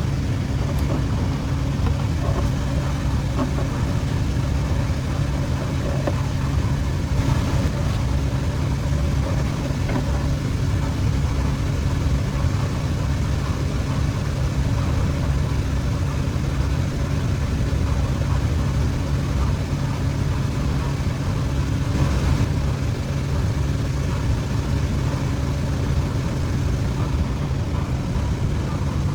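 A machine running steadily with a low, even hum and no breaks.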